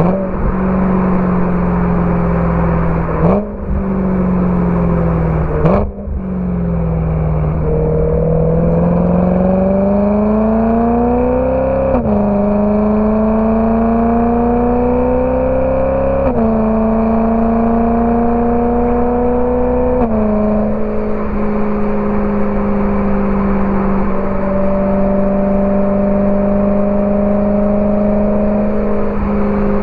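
BMW E92 M3's V8 engine through a Borla ATAK exhaust, pulling through the gears. The note breaks off briefly twice in the first six seconds. It then climbs in pitch and drops sharply at upshifts about 12 and 16 seconds in, drops again near 20 seconds, and holds a steady note for the rest.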